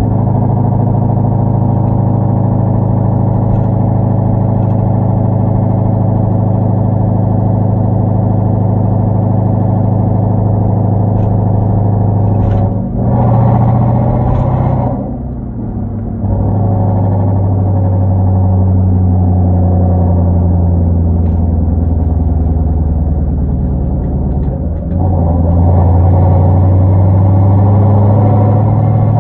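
Hyundai Genesis 5.0 V8 with a straight-piped exhaust and Flowmaster mufflers, droning steadily while driving. Its pitch rises briefly about a third of the way in and then falls back as the throttle eases off. It settles into a steady cruise, then gets louder again near the end as it accelerates.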